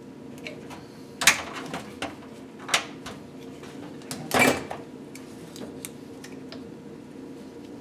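Metal engine parts and tools being handled: a few sharp metallic clinks, with a short louder clatter about halfway through, over a steady low hum.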